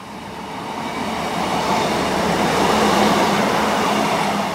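A Class 150 Sprinter diesel multiple unit passing close by. The rumble of its wheels and engines builds as it approaches and is loudest as the carriages go past, with a steady low engine note underneath.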